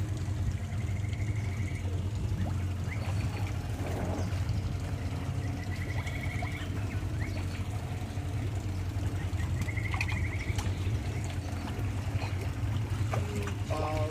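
Steady low engine rumble with water trickling and splashing, and a bird's short rapid trill three times over it.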